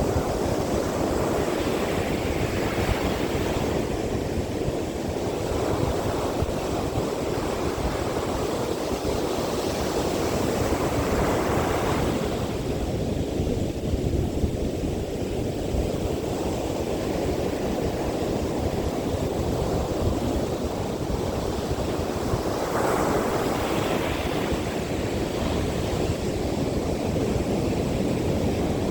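Heavy surf breaking and washing up a sandy beach in strong wind, with the rush swelling as each wave comes in every several seconds. Wind buffets the microphone throughout.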